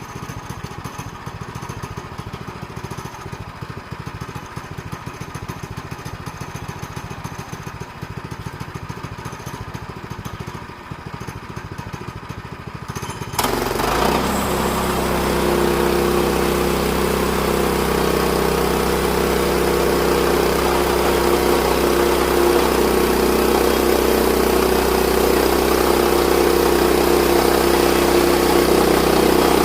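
Portable sawmill's small gasoline engine idling with a fast low pulse, then throttled up sharply about 13 seconds in. It runs steadily at high speed after that.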